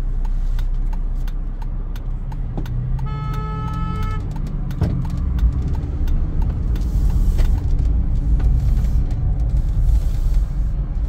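A car driving with a steady low engine and road rumble that grows louder about halfway through. A car horn sounds once for about a second, about three seconds in.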